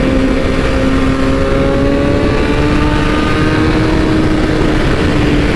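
BMW S1000RR's inline-four engine running at cruising speed on the road, its pitch climbing a little about two seconds in and then holding steady, under a steady rush of wind noise.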